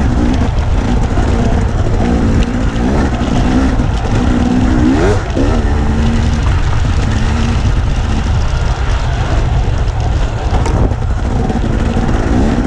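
Dirt bike engine running while being ridden, its pitch rising and falling with the throttle and climbing sharply about five seconds in, over a heavy low rumble.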